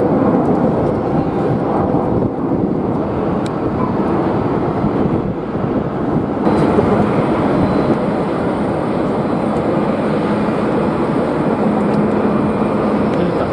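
Jet airliner engine noise, a steady dense rumble with a faint whine that comes in about halfway through, mixed with strong wind buffeting the microphone.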